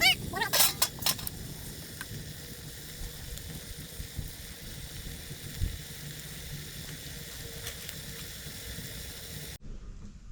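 Steady sizzling hiss of food cooking in a pot. In the first second there is a brief rising-and-falling call and a few sharp clicks, and the sound changes abruptly near the end.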